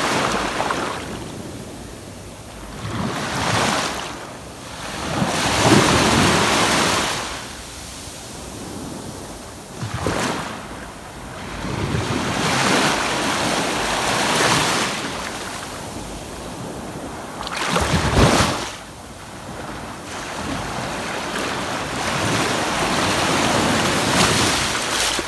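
Ocean waves breaking and washing up a sandy beach, the surf swelling and fading every few seconds, with one sharp, loud surge about three quarters of the way through.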